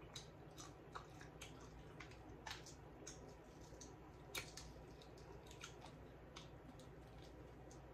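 Faint, irregular crackly clicks of someone chewing fried chicken with crispy breading and pulling a chicken piece apart by hand, one click a little louder about four and a half seconds in.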